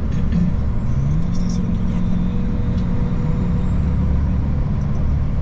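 Old Mercedes truck's diesel engine running, heard from inside the cab. Its pitch rises in the first second or so, then holds steady.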